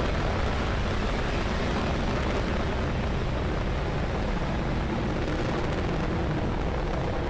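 Steady, rumbling roar of a Falcon 9 first stage's nine Merlin 1D engines during ascent.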